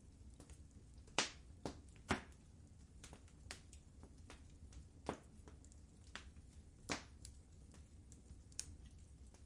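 Wood fire crackling in a fireplace: irregular sharp pops and snaps, the loudest a few seconds apart, over a faint low hum.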